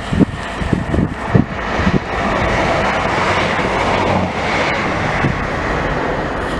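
East Midlands Trains diesel multiple unit passing at speed beneath a bridge over the line: a rush of noise with a few low thumps in the first two seconds, becoming a steady loud roar as the train passes underneath.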